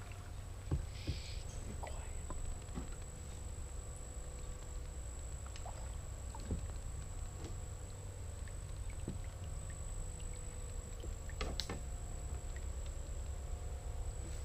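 Faint outdoor ambience: a steady low rumble and a thin, steady high-pitched whine, with scattered small clicks and knocks. A sharper click comes about 11 and a half seconds in.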